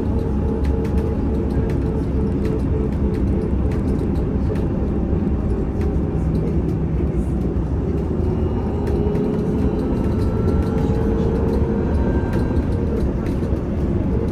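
Cabin sound of a VMZ Avangard trolleybus under way: steady road and body rumble with the electric traction drive's whine, whose pitch rises a little in the second half as the bus gathers speed. Faint scattered rattles and clicks.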